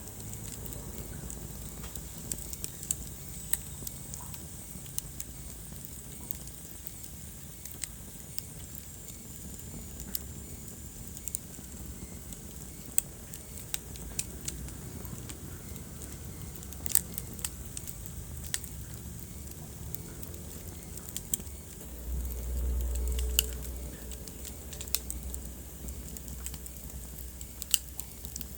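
Wood fire crackling: scattered sharp pops and snaps over a low, steady rumble of burning. The rumble swells louder for a couple of seconds about three-quarters of the way through.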